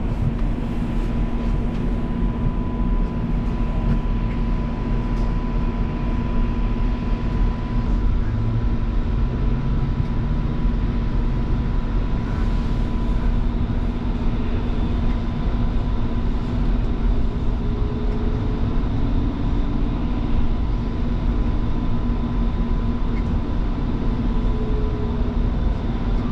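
Bombardier Flexity Freedom light rail vehicle running between stations, heard from inside the car: a steady low rumble of the wheels on the track with a constant electrical hum and whine from the traction equipment.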